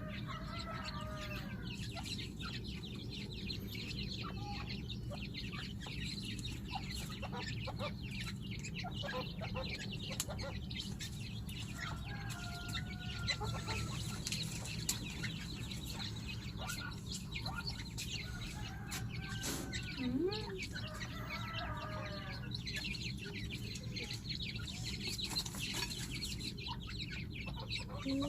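Grey francolins and their chicks calling, with soft clucks and peeping coming in scattered bouts over a steady low hum.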